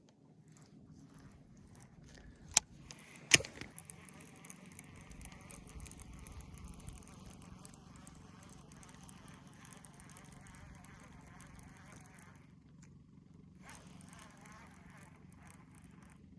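Two sharp clicks, then a spinning fishing reel being wound for several seconds as a lure is retrieved, with a faint rising whine; the winding pauses and starts again briefly near the end.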